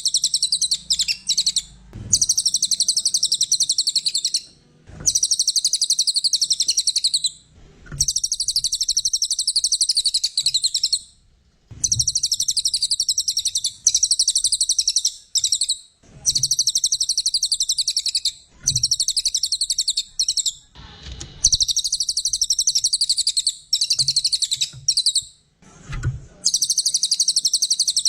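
Brown cililin singing a rapid, high-pitched chattering song in phrases of two to three seconds, repeated with short pauses between them.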